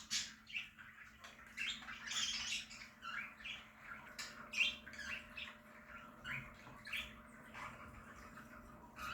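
A colony of budgerigars chirping and chattering, many short calls overlapping in an irregular stream.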